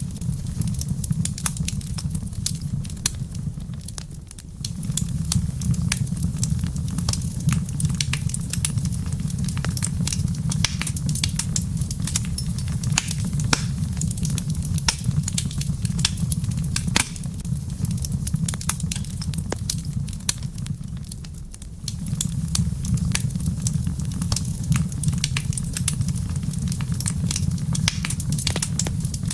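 Wood fire in a fireplace crackling with frequent sharp pops and snaps over a steady low rumble, which dips briefly twice.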